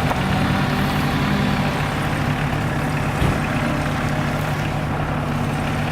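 A vehicle engine running steadily at low revs, with a single sharp knock about three seconds in.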